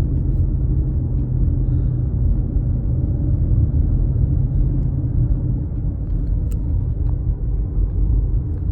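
Steady low rumble of a car driving along, heard from inside the cabin with the windows up: engine hum and tyre noise.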